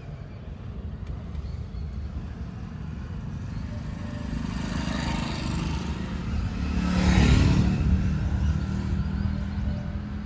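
Diesel engine of a working machine running, growing louder to a peak about seven seconds in and then easing off.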